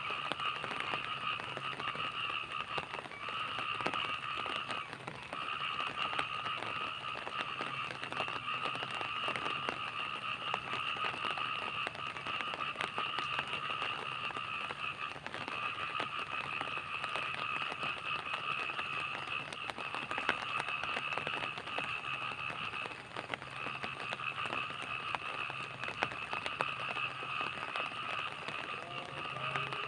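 Light rain at night: scattered drops ticking and crackling, over a steady high-pitched chorus of night-calling animals that breaks off briefly a few times.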